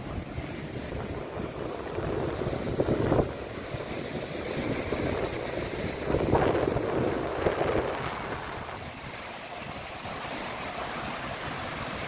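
Pacific Ocean waves breaking and washing up the shore, swelling twice, about two seconds in and again about six seconds in, with wind rumbling on the microphone.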